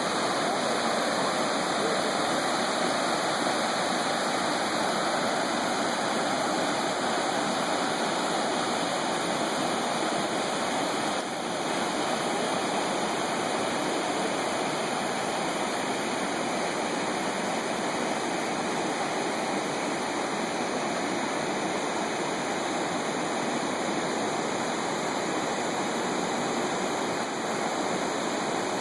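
Water falling down a cascade: a steady, unbroken rush of water noise.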